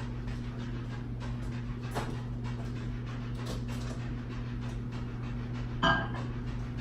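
Microwave oven running with a steady low hum while heating food. About six seconds in there is one short, sharp knock.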